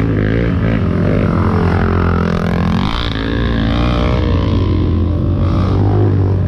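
Off-road vehicle engines running, one revving so its pitch sinks and then climbs again about halfway through, over a steady low engine hum.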